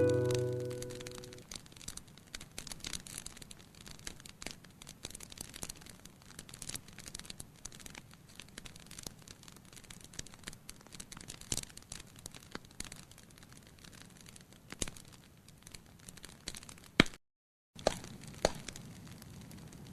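Wood fire crackling in a fireplace: irregular small pops and snaps, with a few louder cracks near the end. A music tail fades out in the first second or two.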